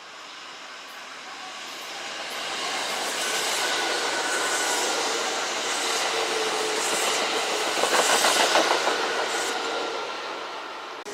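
Kintetsu electric train running past on the tracks, growing louder, with a quick run of wheel clacks over the rail joints at its loudest about eight seconds in, then easing away.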